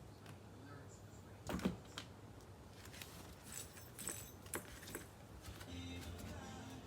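Kittens moving about on a cat scratcher: scattered soft knocks, clicks and brief rustles, with a low hum coming in near the end.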